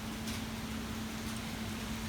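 Steady hiss of heavy rain, with a steady low hum running under it.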